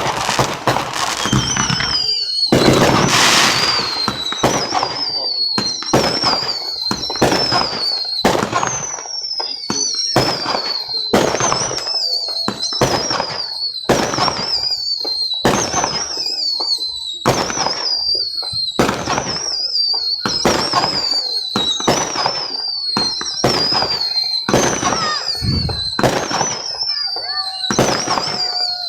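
A fireworks barrage firing a long, steady train of shots, about one and a half a second, each with a short whistle that falls in pitch. A hissing rush comes a couple of seconds in.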